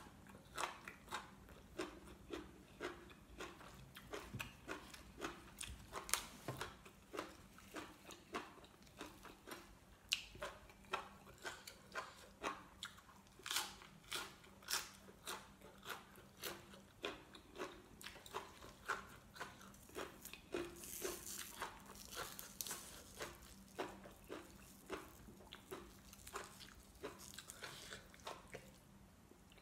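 A person chewing with crisp crunching, biting through raw leafy greens, in a steady run of about two crunches a second.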